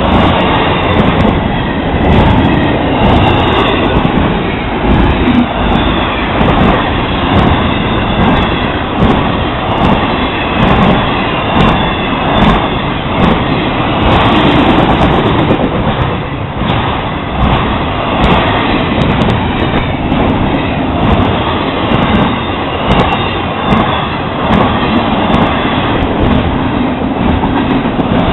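Florida East Coast Railway intermodal freight cars rolling past: a loud, steady rumble of steel wheels on rail, with frequent clicks as the wheels pass over rail joints.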